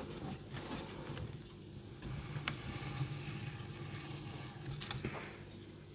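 Faint scratching of a pencil drawing a line on a card, over a steady low hum, with one sharp tick about halfway through.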